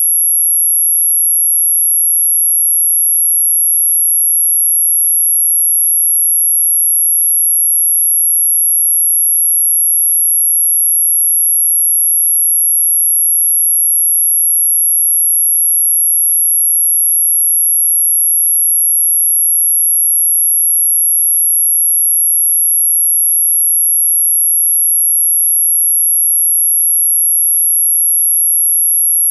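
A single very high-pitched steady electronic tone, held unchanged throughout, played as an anti-mosquito repellent sound.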